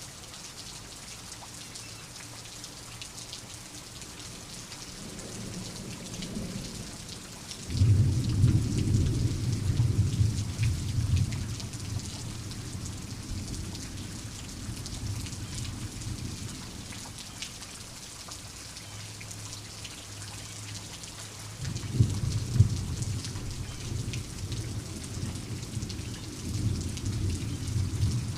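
Steady rain falling, with rolling thunder. A loud rumble breaks in suddenly about eight seconds in and fades over several seconds, and another with sharp cracks comes about two-thirds of the way through and rumbles on.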